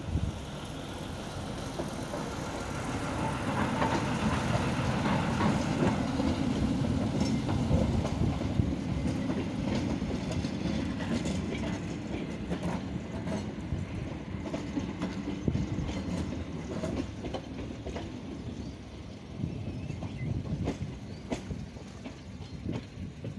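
A narrow-gauge passenger train passing over a level crossing: a low rumble that builds, peaks and then slowly fades as it draws away, with the wheels clicking over the rail joints.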